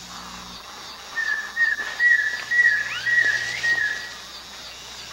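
A loud, warbling whistled call lasting about three seconds, starting about a second in, with a few quick rising sweeps near its end. Steady insect chirring runs underneath.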